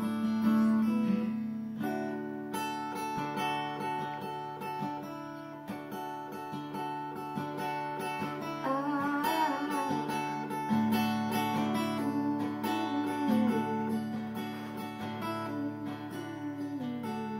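Acoustic guitar music, strummed chords with held notes.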